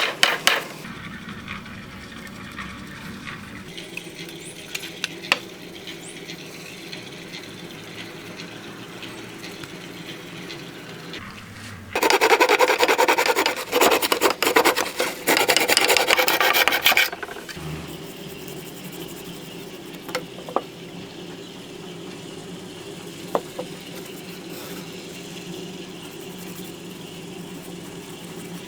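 Abrasive rasping strokes on a rusty steel sword blade as the rust is worked off: a loud run of quick strokes for about five seconds near the middle, with fainter rubbing and a few light taps before and after.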